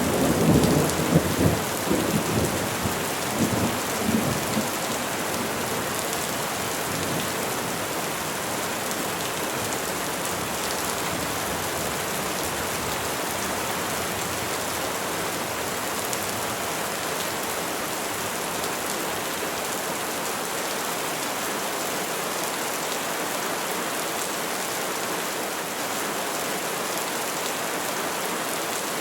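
Steady rain falling on trees, an even hiss throughout. A low rumble of thunder rolls in the first few seconds and dies away about five seconds in.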